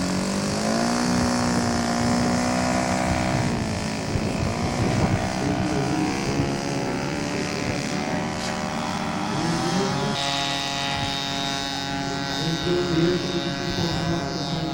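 Engines of a radio-controlled scale model of a four-engined B-29-type bomber running at high power on the takeoff run. Their pitch rises in steps as the throttle opens and the engines speed up, and several engine tones overlap.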